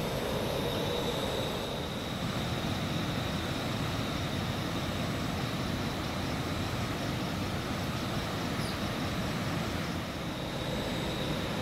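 Steady hiss of rain falling, with a thin, steady high whine running through it.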